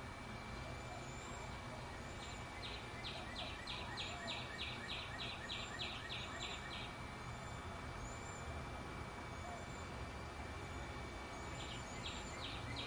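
Backyard bird calls: a rapid series of short repeated notes, about three a second for some four seconds, then again near the end, over faint high chirps and a steady thin high tone.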